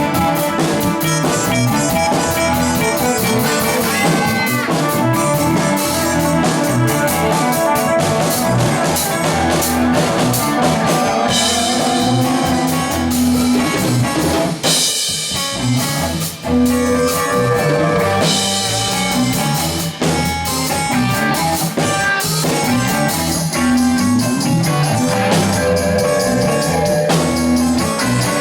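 A band jamming: drum kit and amplified guitar playing together with bass, the low end dropping out briefly about fifteen seconds in.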